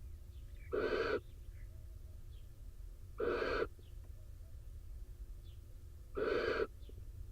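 Barn owl in a nest box giving three short calls, each about half a second long and a few seconds apart.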